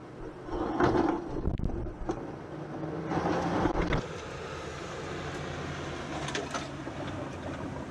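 A vehicle engine running steadily, with two loud rushing noises about a second in and again around three to four seconds in.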